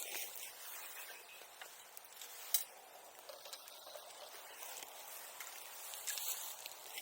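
Bonfire of old silkworm-rearing tools crackling and sizzling, with scattered sharp pops and one loud crack about two and a half seconds in.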